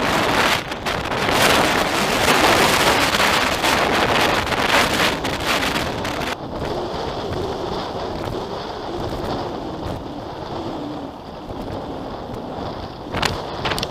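Strong gusty wind blasting the microphone of a GoPro on a moving recumbent bicycle, a loud full rush that drops about six seconds in to a duller, lower rumble.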